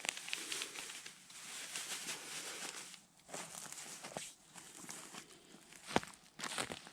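Rustling and crinkling handling noises, uneven, with small clicks and one sharp click about six seconds in.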